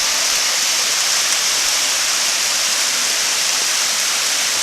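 Steady rush of flowing water from a creek cascade or small waterfall, a constant hiss with no breaks.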